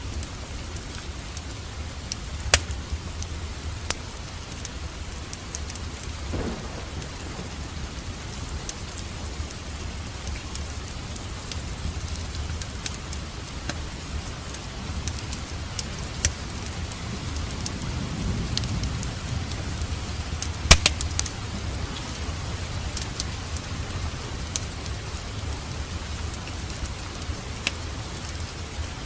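Steady rain with a low rumble of distant thunder that swells about two-thirds of the way through. Occasional sharp pops and crackles from a fireplace sound over it, the loudest just after the thunder peaks.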